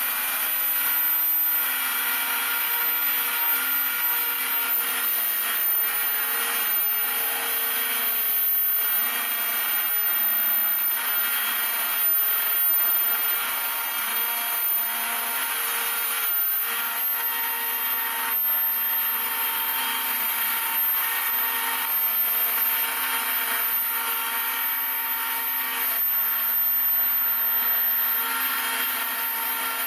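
Homemade CNC router milling, its spindle running steadily while the cutter works the stock. Low whining tones from the stepper motors step up and down in pitch as the axes change speed.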